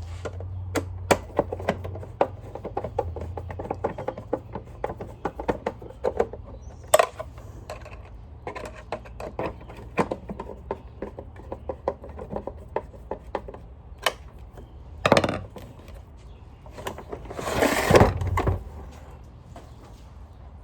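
Clicks, taps and knocks of hands and a screwdriver working on a Sanitaire upright vacuum cleaner's housing and screws. A louder knock comes about 15 seconds in, and a longer scraping rustle follows a couple of seconds later.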